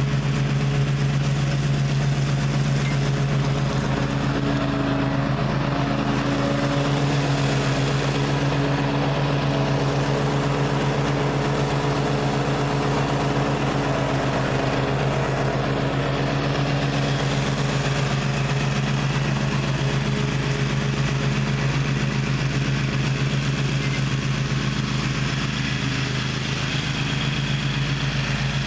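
Gravely ZTX 42 zero-turn mower's engine running steadily at an even speed.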